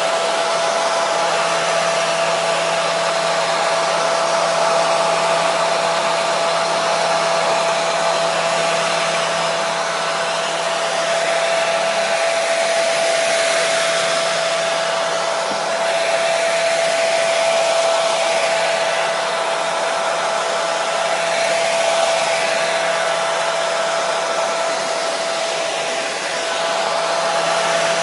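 Hair dryer running steadily: a continuous rush of air with a constant motor whine.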